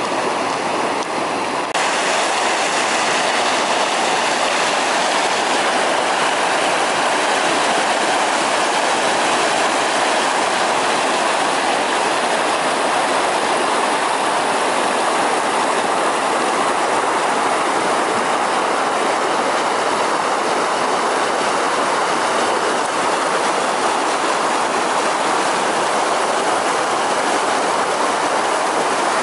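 Steady rushing noise of a moving car, tyre and wind noise, which gets louder about two seconds in and then holds even.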